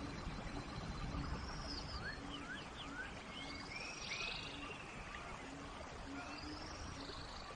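Steady rain falling in a forest, with birds calling over it several times in short gliding notes and a low short note repeating about twice a second.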